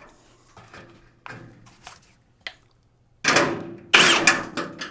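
A few faint taps, then from about three seconds in a run of loud knocks and clattering handling noises, several in quick succession.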